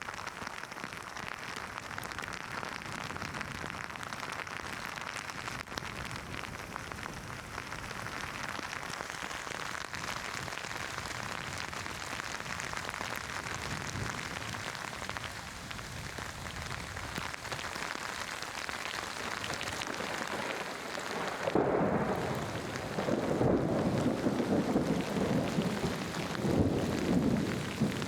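Steady rain falling. Near the end a loud rumble of thunder sets in over the rain.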